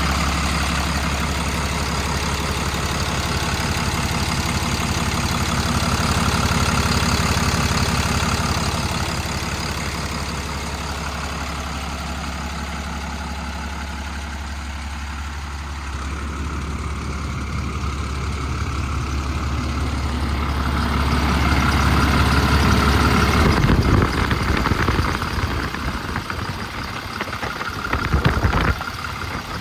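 Paccar PX-6 6.7-litre diesel engine of a Kenworth T370 idling with a steady low drone, which turns uneven about three-quarters of the way through.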